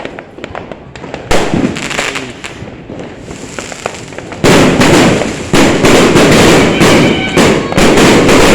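Fireworks and firecrackers going off: scattered sharp pops and cracks at first, then about halfway through a dense, continuous barrage of loud bangs and crackling.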